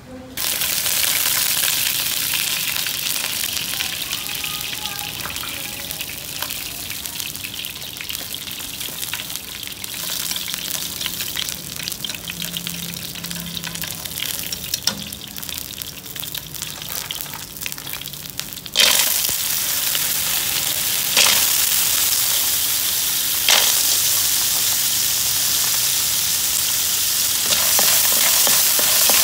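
Oil sizzling in a hot wok as chopped garlic and shallots fry, starting suddenly just after the start. About two-thirds through, the sizzle jumps louder as areolata sea snails in their shells go into the pan. A few sharp scrapes of a wooden spatula stirring them follow.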